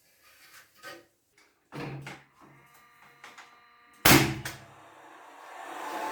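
A few light knocks, then one loud thud about four seconds in, followed near the end by a steady noise that grows louder.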